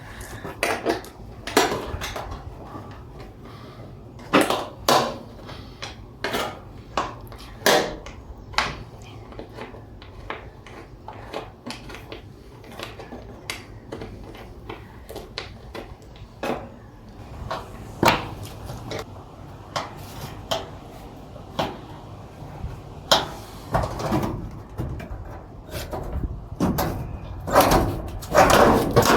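Irregular knocks and clinks of hand tools and fittings as plywood lining and a bulkhead are taken out of a van's cargo area, a sharp strike every second or two, with a busier cluster of clatter near the end.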